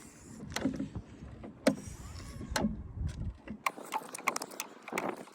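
Wind buffeting the microphone as a low rumble that drops away suddenly about three and a half seconds in, with scattered sharp knocks and taps throughout.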